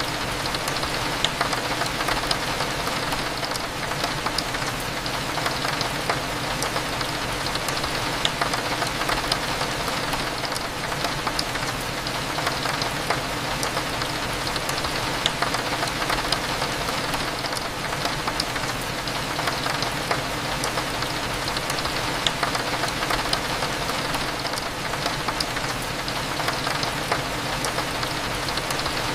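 Steady rain falling on a window, with scattered sharp raindrop ticks, over a low steady cafe hum.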